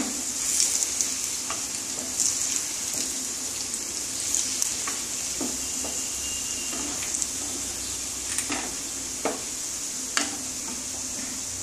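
Egg-and-flour dough balls shallow-frying in hot oil in a kadai: a steady sizzle, with scattered light knocks of a wooden spatula as the pieces are turned over.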